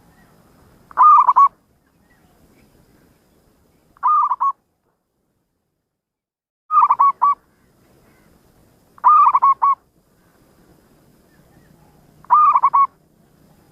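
Zebra dove (perkutut) cooing: five short phrases of a few quick notes each, about every two to three seconds.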